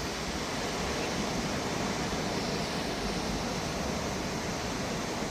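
Ocean surf breaking on a beach: a steady, unbroken wash of noise with no single wave standing out.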